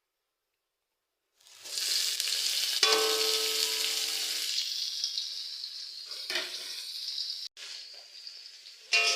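Vegetables frying in hot oil: a loud sizzle starts suddenly about a second and a half in and slowly dies down, with a ringing metal clank against the pan about three seconds in. The sizzle flares up loudly again near the end.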